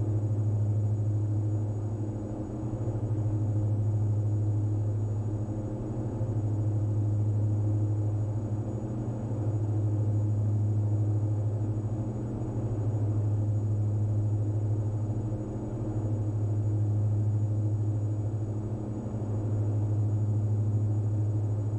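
Diamond DA42 NG's twin Austro AE300 turbo-diesel engines and propellers in the climb: a steady low drone that swells and fades about every three seconds, the beat of two propellers turning slightly out of sync.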